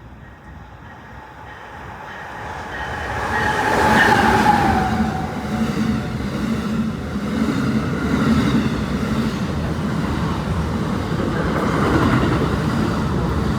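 Amtrak passenger train passing at speed. It gets louder as it approaches, and a whine drops in pitch as the locomotive goes by about four seconds in. After that comes the steady rumble and rhythmic clatter of the cars rolling past.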